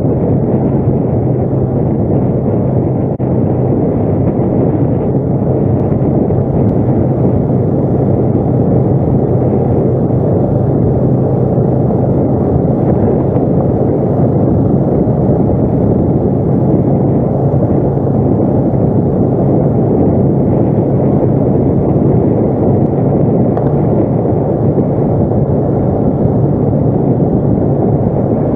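ATV engine running steadily under way, a constant loud drone.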